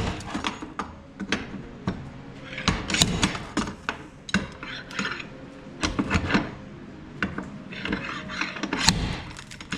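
Pry bar clanking and scraping against the crumpled sheet-metal door of a Jeep Comanche, in irregular knocks and scrapes, as it is levered at the jammed door, which stays stuck shut.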